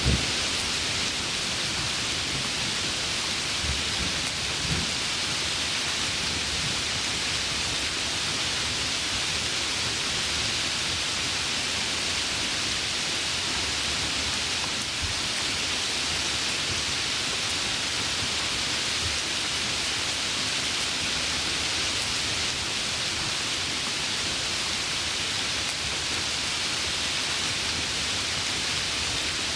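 Heavy rain falling steadily in a thunderstorm, a dense even hiss, with a few low thunder rumbles in the first few seconds.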